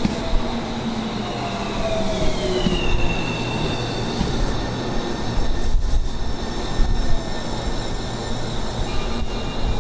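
Electric commuter train on the Tobu Tojo Line running through the station, its whine gliding down in pitch over the first few seconds, with gusty wind rumbling on the microphone.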